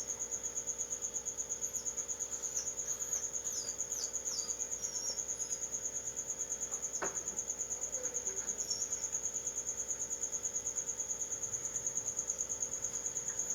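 A cricket trilling in a steady, fast, even pulse throughout, with a few brief high chirps a couple of seconds in and a single sharp click around the middle.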